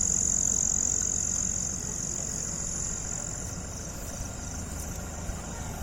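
Insects chirring in a steady high-pitched drone that weakens and turns to a pulsing trill about halfway through, over the low rumble of an idling vehicle engine.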